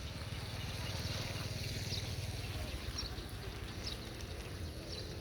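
Wind buffeting the microphone as a steady low rumble, with a few faint short high chirps.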